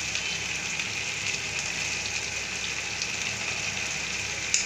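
Onion-tomato masala frying in a kadai: a steady sizzle, with a small tap near the end.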